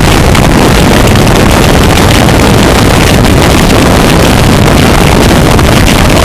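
Harsh noise music: a constant, heavily distorted wall of noise filling every pitch at full loudness, with no separate strokes or breaks. It is built from processed forge and anvil recordings.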